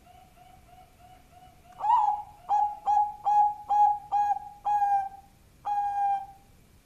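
Zebra dove (perkutut) of the Bangkok song line cooing: a soft run of quick coos, then from about two seconds in a loud song of eight clipped, ringing coo notes, the last one drawn out.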